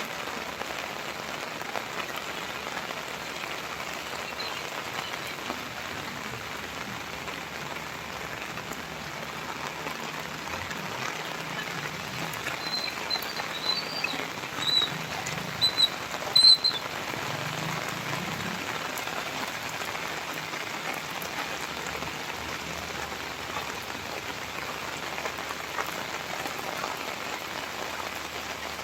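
Steady rain falling on surfaces, an even hiss of drops. Midway through, a few short high-pitched chirps sound over it.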